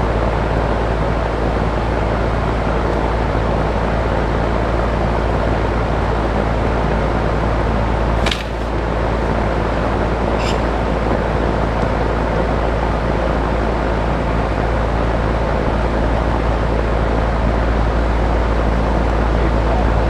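Steady loud fan-like noise with a low hum, broken by two short clicks about eight and ten seconds in.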